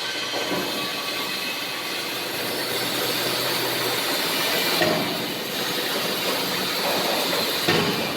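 Steady industrial machinery noise with a hiss, and a couple of sharp metallic knocks near the middle and near the end.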